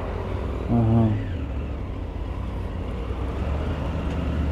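Triumph motorcycle engine running while riding slowly, a steady low drone. About a second in, a brief voice sound.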